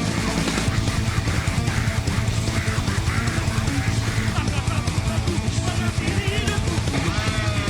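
Heavy metal music from a band, with distorted electric guitar over a fast, steady drum beat.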